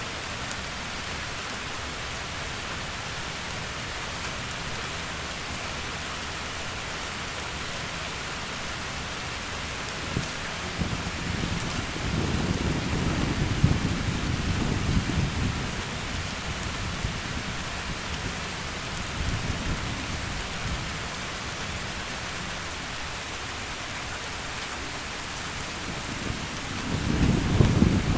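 Heavy rain falling steadily, with low rolls of thunder: one swelling about twelve seconds in and lasting a few seconds, another starting near the end.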